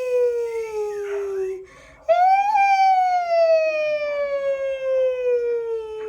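A person's voice making a long, high wail in imitation of a kitten's cry. One wail slides slowly down in pitch and ends, and after a short breath a second wail starts high about two seconds in and falls steadily again.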